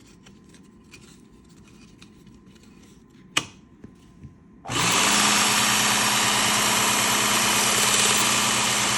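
A sharp click and two small knocks, then about halfway through a Work Sharp Ken Onion Elite belt sharpener with grinding attachment switches on. It runs steadily, a motor hum under the hiss of its 200-grit belt.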